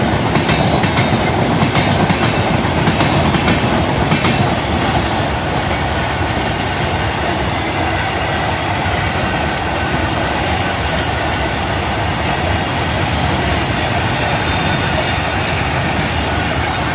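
A train rolling past close by: a steady rumble of wheels on the rails with a rapid clickety-clack over the rail joints, clearest in the first few seconds, then a smoother rush of wheel noise that eases off near the end.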